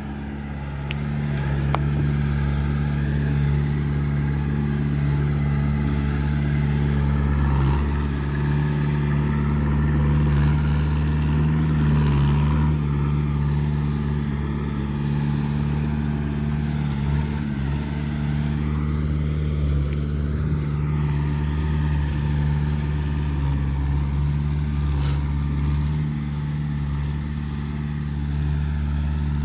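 Heavy diesel engine idling steadily, a low even hum that holds the same speed throughout.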